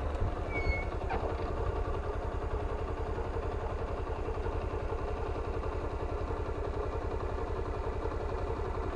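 Motorcycle engine idling steadily with an even, regular beat.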